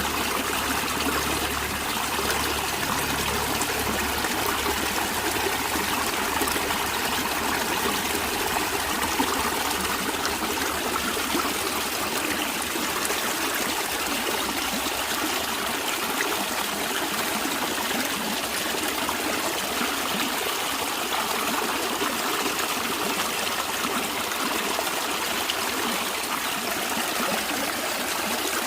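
Natural stream water flowing and trickling in a steady, even rush. A faint low hum lies under it for the first several seconds, then fades out.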